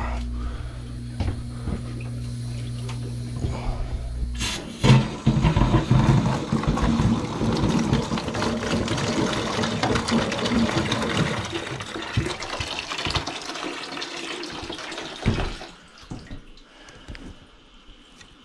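A steady low hum, then after a sharp click, water and air sputter and gush out of a hydronic boiler system's bleed hose for about ten seconds before cutting off suddenly: air being bled from the heating loop.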